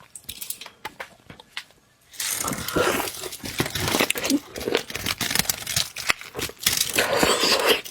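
Crackling and tearing of a shellfish shell being pulled apart and peeled by hand close to the microphone, starting about two seconds in after a few faint clicks.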